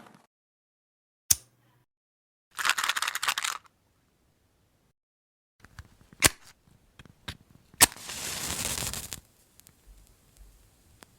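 Firecrackers: separate sharp bangs and pops, the loudest about eight seconds in, with two short bursts of hiss between them.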